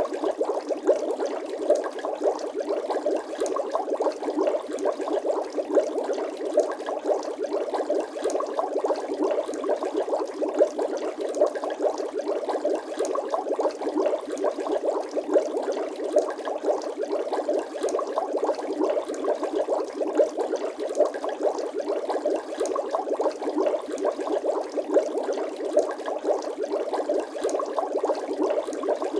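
Water bubbling without a break: a dense, steady stream of small bubbles popping, with no lulls or changes.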